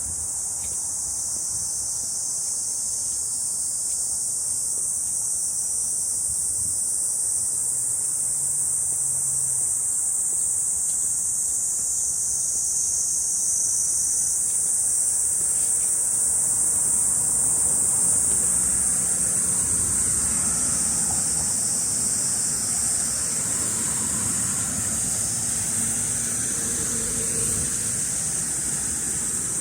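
Cicadas in a steady, high-pitched summer chorus. A low rumble builds underneath in the second half.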